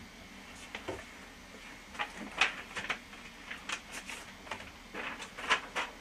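Sheets of paper being picked up and handled on a desk, a string of short, irregular rustles and light taps.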